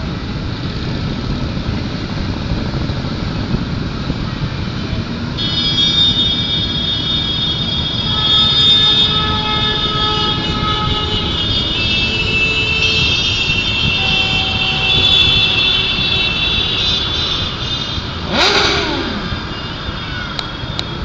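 Dense motorcycle traffic passing in a steady din of many engines, with a high steady whine from about five seconds in. Near the end one machine gives a brief loud rev that falls in pitch.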